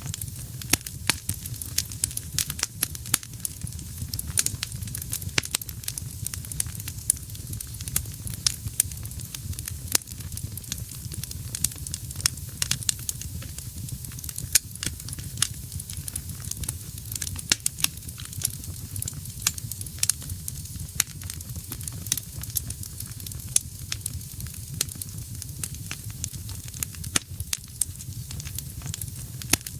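Wood fire burning in a fireplace: frequent sharp crackles and pops, several a second, over a steady low rumble and soft hiss of the flames.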